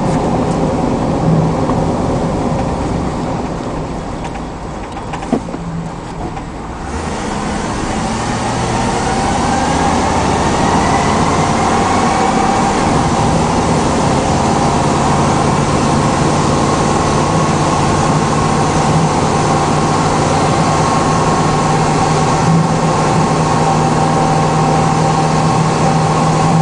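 A 1997 Chevy Cheyenne 3500 HD truck's 7.4-litre 454 V8 running as the truck is driven, heard from inside the cab. It is quieter for a few seconds, with one sharp click, then picks up about seven seconds in with a rising whine as the truck gathers speed, and holds a steady drone after that.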